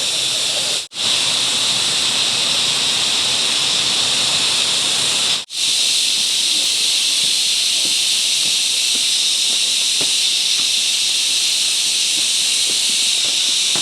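Cicada chorus, a loud steady high-pitched drone that cuts out for an instant twice, with faint light rustles underneath toward the end.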